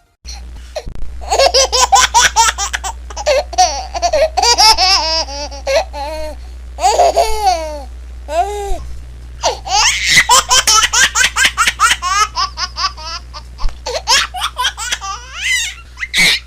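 Baby laughing in long runs of rapid, high-pitched giggling pulses, with a brief pause about eight and a half seconds in.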